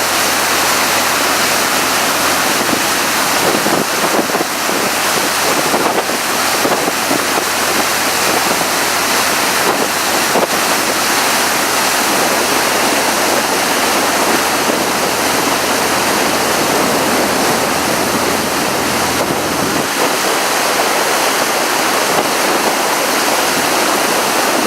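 Tour boat under way: a steady rush of water along the hull and wind buffeting the microphone.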